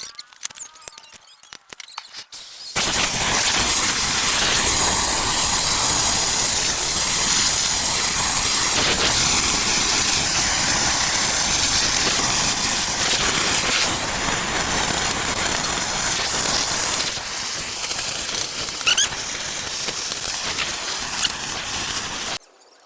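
Gas welding torch flame hissing loudly and steadily after a few clicks. It starts about three seconds in and cuts off suddenly near the end.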